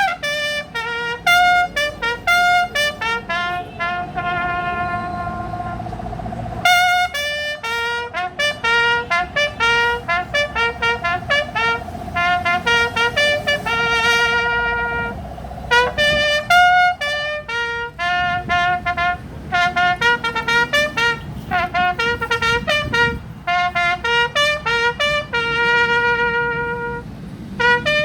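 Brass instruments led by trumpet playing a tune: runs of short repeated notes, with two long held notes.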